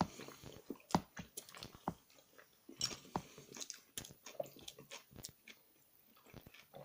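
A person chewing a mouthful of loaded fries close to the microphone, with irregular wet smacks and small clicks of the mouth.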